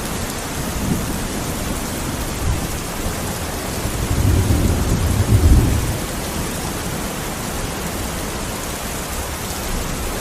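Steady rain falling. A low rumble swells for about two seconds near the middle.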